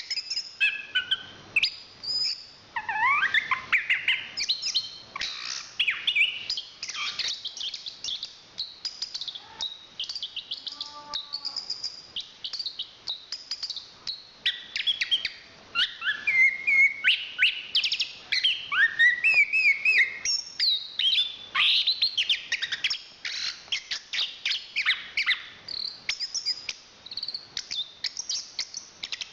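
Chestnut-capped thrush singing a long, varied song of rapid chirps, trills and whistled glides, with a thinner, quieter stretch in the middle.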